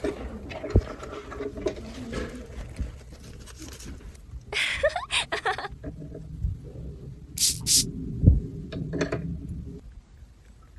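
Small plastic toy pieces being handled: scattered clicks, taps and rustling, with a brief squeak about five seconds in.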